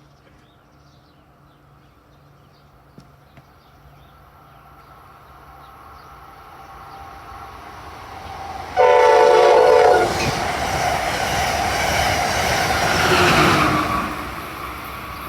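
A train approaching and passing at speed: its rumble builds, it sounds one short horn blast of about a second, the loudest thing heard, then rushes by and falls away.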